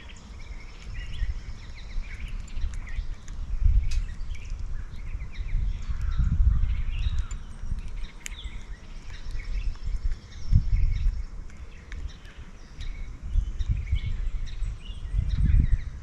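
Backyard songbirds chirping and calling, many short calls overlapping throughout, over a loud, uneven low rumble that swells and fades every few seconds.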